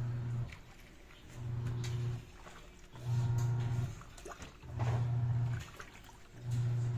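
Haier automatic washing machine's wash motor running in short spells of about a second, one every 1.7 s or so, as it churns the load back and forth, with faint knocks in between.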